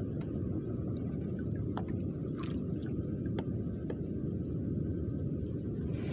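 Steady low rumble of a small fishing boat at sea, with a few faint clicks and taps.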